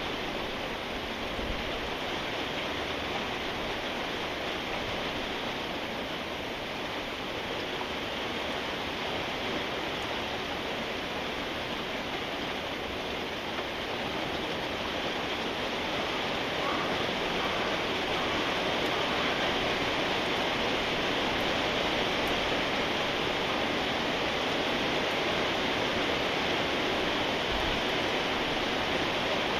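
Steady rain falling, a dense even hiss that grows a little louder about halfway through.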